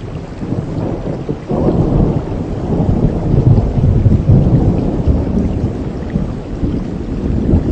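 Heavy rain falling steadily, with a low rolling rumble of thunder that comes in suddenly about a second and a half in, swells, then slowly dies away.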